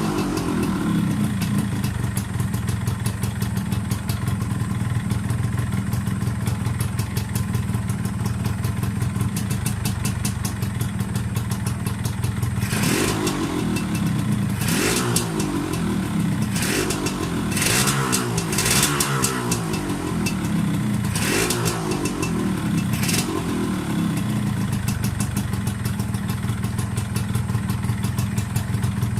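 Yamaha RXZ135 two-stroke single-cylinder motorcycle engine idling steadily. Roughly halfway through, the throttle is blipped six or seven times in quick succession, each a short rev up and back down, and then the engine settles back to idle.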